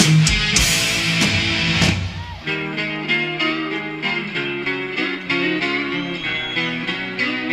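Heavy metal band playing live with distorted electric guitar and drums. About two seconds in, the drums drop out and a lone electric guitar picks a melodic line of separate notes until the end.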